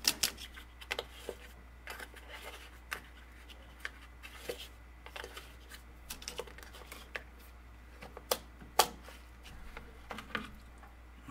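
Irregular plastic clicks, knocks and scrapes as the drain pump filter of a Kenmore HE3 front-load washer is twisted loose and pulled out. The sharpest knock comes about three-quarters of the way through.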